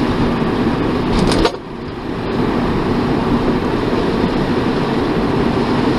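Steady road and engine noise inside a moving car's cabin, dropping briefly about a second and a half in before carrying on.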